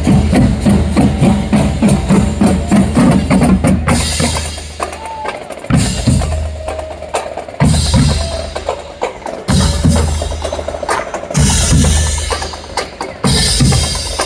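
Loud percussion music with fast drumbeats and wood-block-like knocks over a heavy bass that drops out briefly several times.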